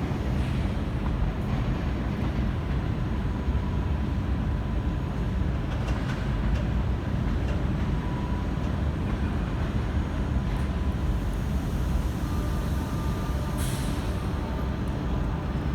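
Train at a station platform, a steady low rumble throughout with a few faint clicks and a short high hiss near the end.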